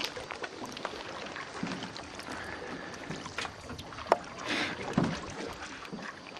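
Knocks and light clatter from a canoe and its gear, one sharp knock about four seconds in, over steady wind and water noise.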